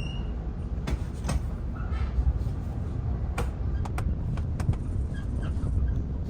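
Electric suburban train running, heard from inside the carriage: a steady low rumble with several scattered sharp clicks and knocks.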